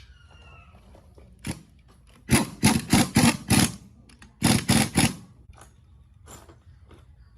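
A series of sharp knocks, like hammer blows on a workpiece: a single blow, then a quick run of five, a short pause and four more.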